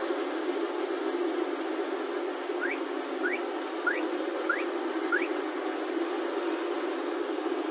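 Kubota rice combine harvester running with a steady mechanical hum. Partway through come five short rising chirps, evenly spaced.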